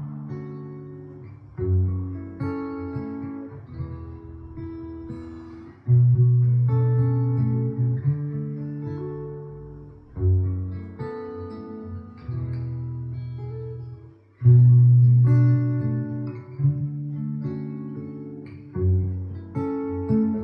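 Background music: a plucked guitar picking out chords, with a deep low note at each chord change about every four seconds.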